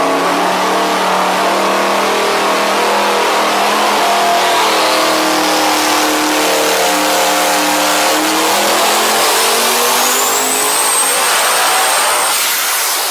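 Devel Sixteen's quad-turbo V16 engine run hard through a dyno pull, its pitch climbing slowly and steadily over several seconds. A thin high whine rises alongside it in the second half.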